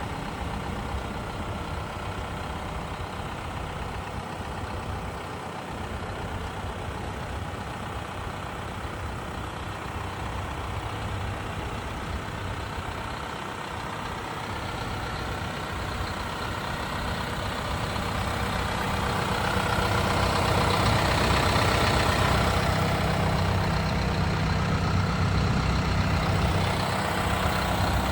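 Engine of a 2018 Isuzu 16-foot box truck idling steadily, growing louder about two-thirds of the way through.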